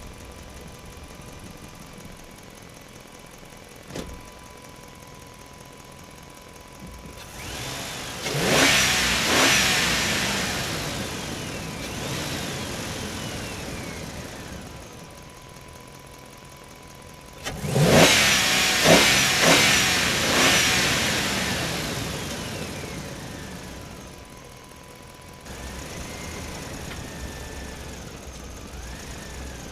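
Excavator running steadily, with two loud surges about ten seconds apart as it works. Each rises sharply with a falling whine, then slowly dies away.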